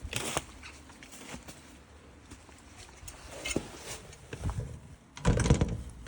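Rustling and clunks of outdoor gear being handled, in short scattered bursts, the loudest a heavier rustle lasting about half a second near the end.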